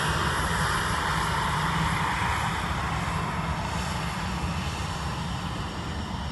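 Engines of a departing Allegiant Airbus jetliner: a steady jet roar that slowly fades.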